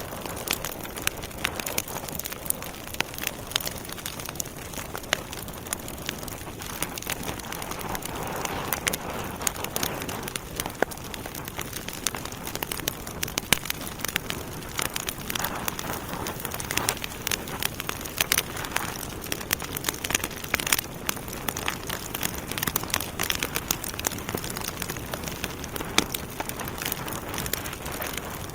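Wood fire burning in a fireplace: a steady hiss of flames with frequent, irregular sharp crackles and pops from the burning logs.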